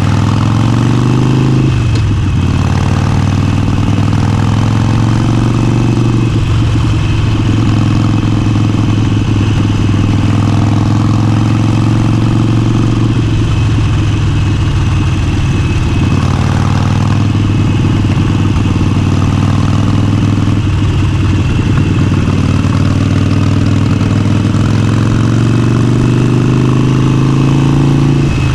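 Motorcycle engine running under way, its note climbing slowly and then dropping several times as the throttle or gear changes.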